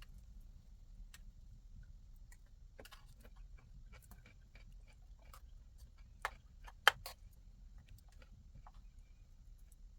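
Wood fire crackling with scattered small clicks, and two sharper, louder pops about six and seven seconds in, over a low steady rumble.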